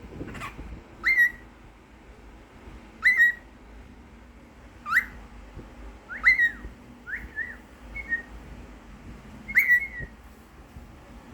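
Cockatiel whistling: a string of short, sharply rising whistles, one every second or two, with a few quick two-note phrases in the middle.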